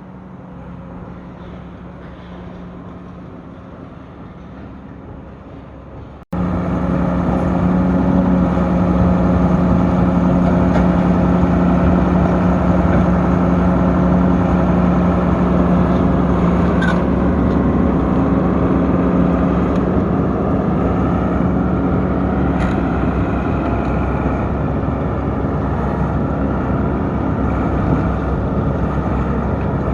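Volvo EC230B tracked excavator's six-cylinder turbo diesel running steadily, at first fairly quiet. About six seconds in, the sound jumps to much louder and closer and stays that way as the machine travels on its tracks.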